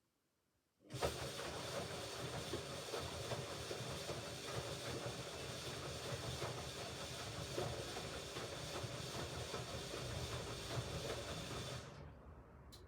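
Hoover Ecologic Computer Washer 1300 washing machine taking in water: a steady rushing hiss starts suddenly about a second in and cuts off sharply near the end as the inlet valve opens and closes during the rinse.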